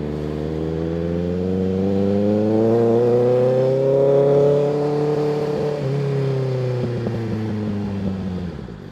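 Kawasaki ZX-6R 636's inline-four engine pulling away, its note rising steadily for about four seconds, dipping briefly about six seconds in, then falling as the throttle is rolled off, fading near the end.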